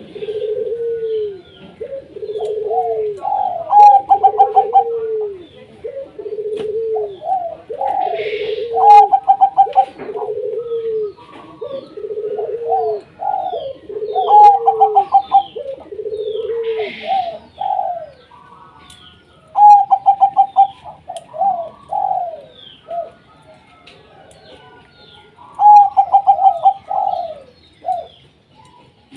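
Zebra doves cooing: phrases of quick, rhythmic coo notes at two pitches that overlap, broken by short pauses. Faint high chirps sound above them.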